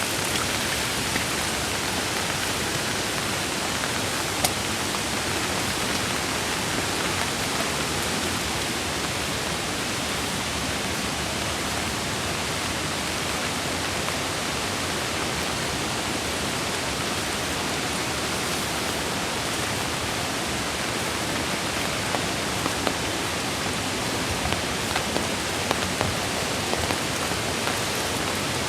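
Steady rushing of a mountain creek mixed with falling rain, with a few brief ticks near the end.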